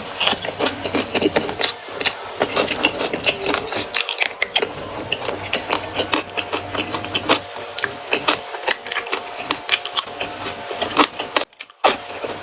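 Close-miked crunchy chewing of raw vegetables: a fast, irregular run of crisp crackles and clicks, with a brief pause near the end.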